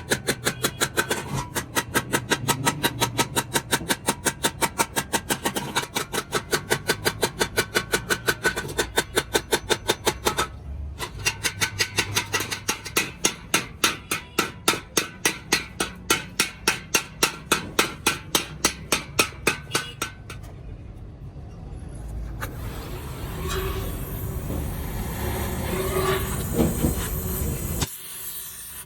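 Rapid, even metal-on-metal strikes, about five a second, in two long runs with a short break, typical of sheet steel being hammered for a muffler shell. A steadier noisy work sound follows near the end.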